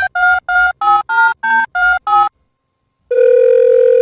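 Telephone keypad tones: a quick run of about nine short two-note beeps, about four a second. About three seconds in, a steady phone tone starts and holds.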